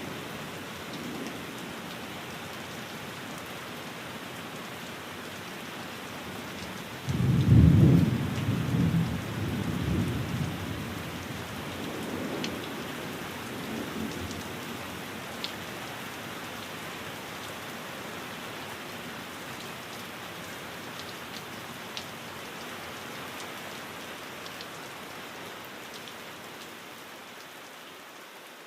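Steady rain falling, with a roll of thunder breaking in suddenly about seven seconds in, the loudest part, and rumbling on in swells for several seconds before fading back under the rain.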